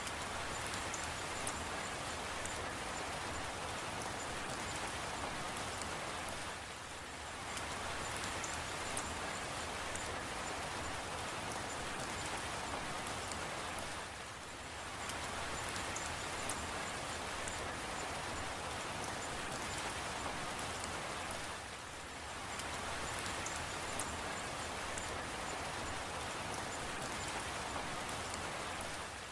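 Steady rainfall, an even hiss of many drops with faint drip ticks in it, dipping briefly in loudness about every seven seconds.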